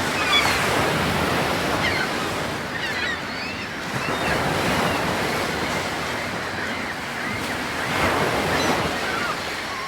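Ocean waves surging and washing in, swelling about every four seconds, with faint short high chirps over them.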